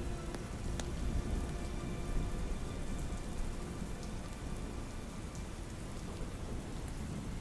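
Steady soft rain with a low rumble underneath, a few sharp crackling pops from a campfire, and faint held tones of an ambient music pad.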